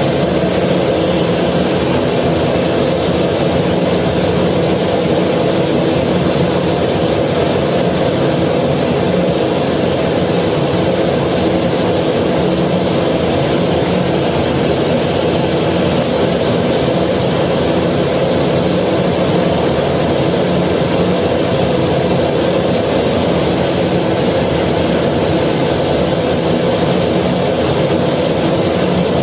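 A ferry's engines running with a loud, steady drone that holds the same level throughout, with several steady tones layered over a mechanical rumble.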